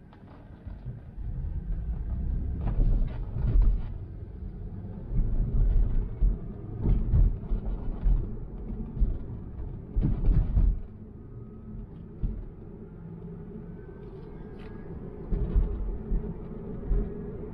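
Tesla road noise while driving: a steady low tyre rumble broken by several heavy thumps and jolts, with a faint rising whine in the second half.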